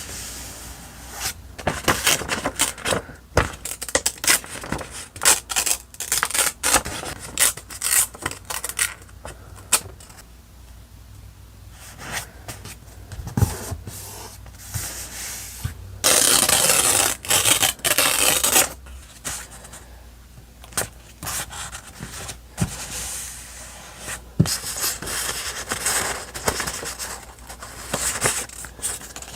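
Paper and stickers being handled: crackling rustles, light scrapes and rubbing, with a denser, louder rustle for about two seconds a little past the middle.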